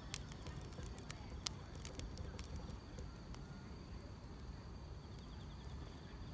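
Wood fire crackling, with irregular sharp pops over a low steady rumble, and a steady high chirring of grass insects behind it.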